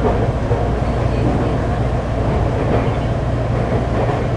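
Tokyu 3000-series electric commuter train with a Hitachi IGBT-VVVF inverter, heard from inside the passenger car as it runs along: a steady low rumble with no rise or fall in pitch.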